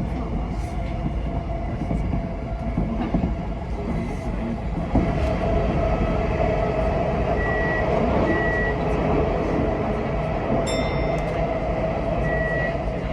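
Tokyo Metro 10000 series electric train running between stations, heard from inside the front of the car: a steady rumble of wheels on rail with a constant hum that grows stronger after a knock about five seconds in. A few short high beeps sound in the second half.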